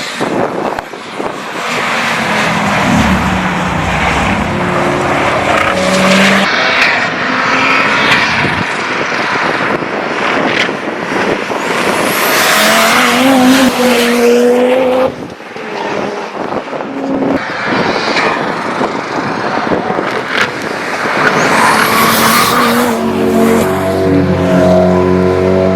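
Cars driven hard on a race track, their engines revving and changing pitch as they accelerate and go past, with a fast whoosh about halfway through and again near the end.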